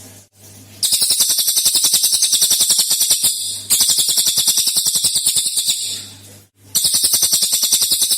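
Cililin songbird giving its 'tembakan' song: three long bursts of rapid, high, rattling notes at about ten a second, each lasting two to three seconds with short pauses between them.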